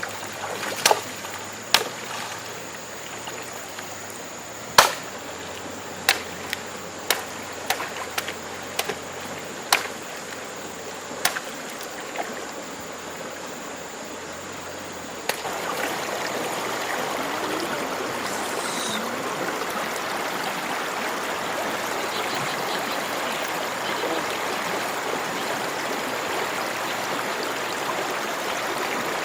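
Scattered sharp knocks over a quieter steady hiss. About halfway through, a steady rush of running water starts abruptly and carries on.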